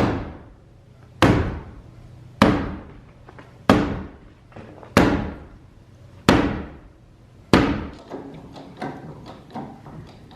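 Heavy sledgehammer blows on a 2x8 timber, knocking it into position against the attic joists: seven evenly spaced strikes a little over a second apart, then a run of lighter, quicker knocks near the end.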